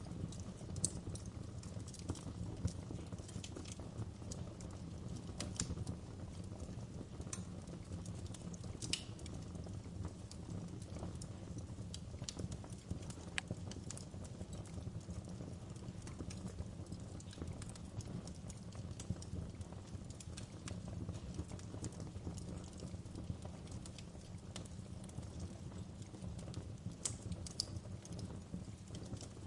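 Wood campfire burning: a low steady rumble with irregular sharp crackles and pops scattered throughout.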